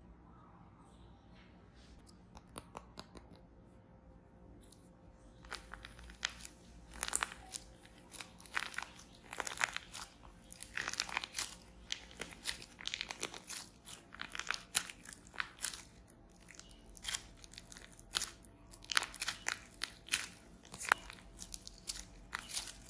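Dried plaster clay crunching and crackling as it is cracked and crumbled by hand: faint for the first few seconds, then a dense run of sharp little cracks and crunches from about five seconds in.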